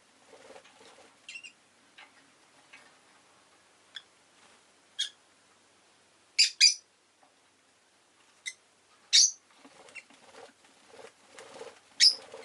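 Rosy-faced lovebird giving short, sharp chirps at irregular intervals, the loudest a quick pair in the middle and a single one near the end. Soft low rustling sounds come and go between the chirps.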